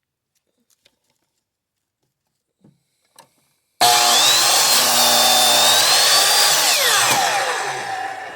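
Ryobi miter saw switched on about halfway through: the motor starts abruptly and runs loud with a whine that bends in pitch as the blade cuts wood, then falls away as it winds down near the end. A few faint clicks come before it starts.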